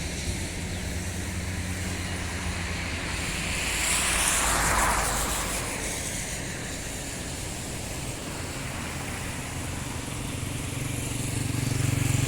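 Motor vehicle engine hum over a steady hiss of road noise, with a swell of hiss as a vehicle passes about four seconds in and the engine growing louder near the end.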